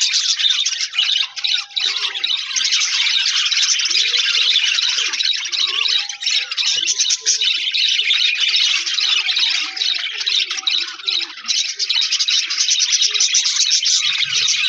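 A flock of budgerigars chirping and warbling together in a dense, continuous chatter.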